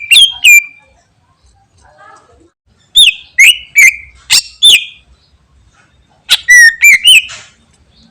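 Cucak ijo (greater green leafbird) singing loud, sharp whistled notes with quick pitch glides, in three short bursts of several notes each: one right at the start, one about three seconds in, and one about six seconds in.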